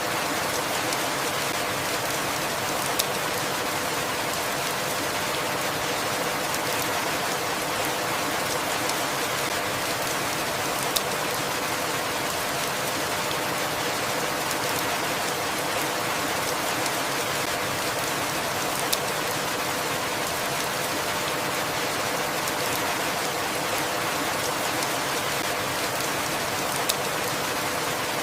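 Steady rainfall, an even hiss of many drops, with a sharp light click about every eight seconds.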